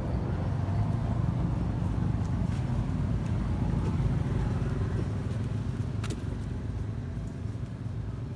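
Steady low rumble of a motor vehicle engine, strongest in the first half and easing off towards the end, with a single sharp click about six seconds in.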